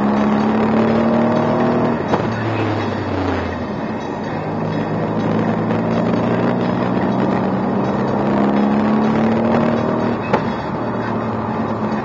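A 2016 Mercedes-AMG C63 S's twin-turbo V8, heard from inside the cabin while the car is driven hard on a track. The engine note climbs slowly under acceleration, drops away about two seconds in, climbs again, and falls off with a short sharp click about ten seconds in.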